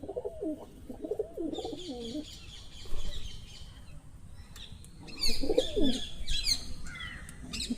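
Birds calling: low, wavering cooing calls at the start and again about five seconds in, with runs of rapid, high chirps about a second and a half in and again from about five seconds on.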